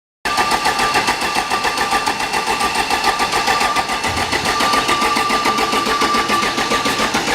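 Volvo truck diesel engine being cranked over by its starter, with a fast, even pulse and a steady whine, not yet firing. It has sat unused, and a bent fuel rack keeps fuel from reaching the injectors.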